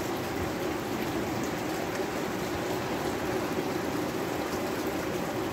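Light downpour of rain falling steadily, an even unbroken rushing noise.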